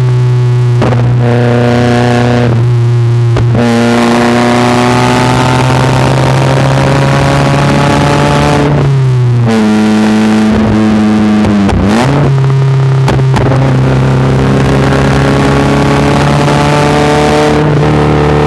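Exhaust note of a Nissan March (K12) with a Karakuri House aftermarket muffler, the engine pitch climbing slowly with revs, dropping sharply about halfway through, dipping again and then holding steady, with a few brief breaks where the throttle eases. It is very loud, at the limit of a cheap 100-yen microphone.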